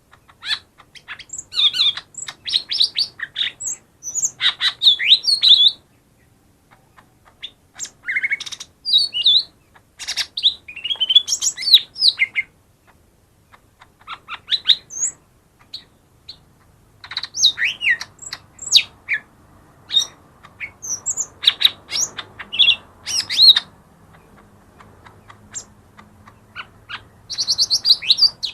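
Cucak ijo mini, a small leafbird, singing a fast, varied song of high chirps and whistled phrases. The song comes in bursts of several seconds, with pauses of a second or two near 6, 13 and 25 seconds in.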